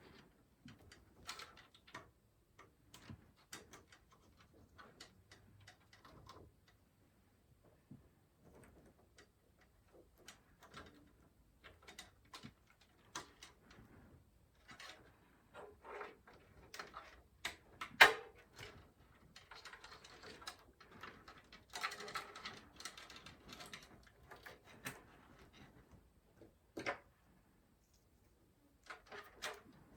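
Scattered light clicks, taps and rustling of hands handling PC parts, with one sharper click a little past the middle and a stretch of rustling after it, as a power supply and its cables are fitted into a case.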